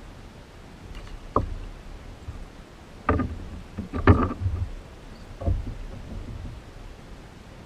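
Hollow knocks and bumps on a kayak's hull, four of them spread over a few seconds with the loudest in the middle, over a steady hiss.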